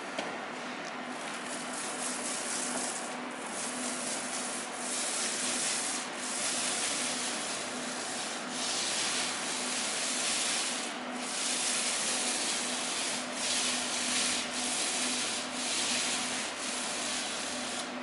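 Steady rasping, rubbing strokes across a wall surface, breaking briefly every second or two between strokes, over a faint steady hum.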